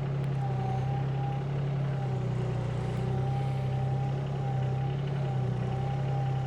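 Engine of heavy machinery running steadily at constant speed, with a faint higher whine above the low drone.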